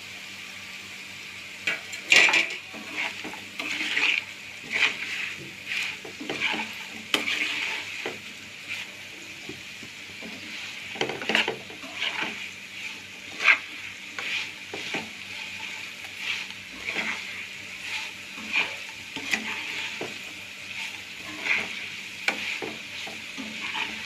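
Potato pieces sizzling in oil in a pan, with a spatula scraping and knocking against the pan as they are stirred, about once or twice a second.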